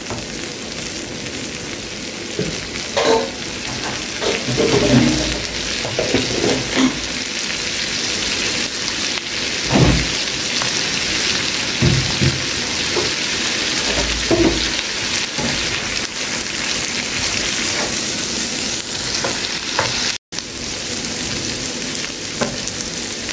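Onions, garlic and jerk seasonings sizzling steadily in melted butter in a saucepan, with a utensil stirring and knocking against the pan now and then, mostly in the first half.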